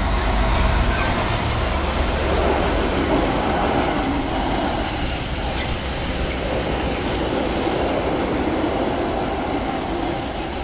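Freightliner Class 66 diesel-electric locomotive hauling a freight train through a station without stopping: the locomotive's low engine rumble is strongest in about the first second, then the wagons roll by in a steady rumble of wheels on rail.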